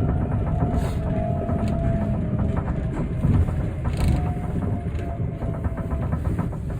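Osaka Metro New Tram, a rubber-tyred automated guideway train, running, heard from inside the car: a steady rumble with a faint motor whine and light regular ticking.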